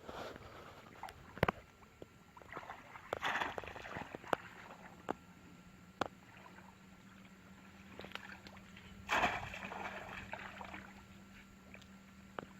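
Water sloshing and splashing in three short bursts, with a few sharp knocks between them.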